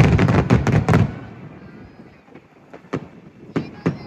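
Aerial fireworks bursting: a rapid volley of bangs in the first second that dies away into a rumble, then a few single cracks near the end.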